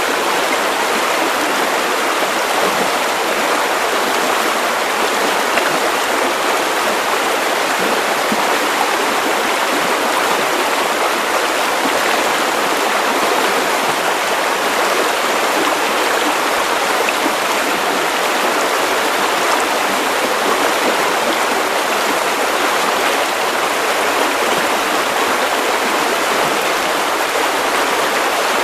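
Steady white noise: an even, unbroken hiss that sounds like rushing water, with little bass.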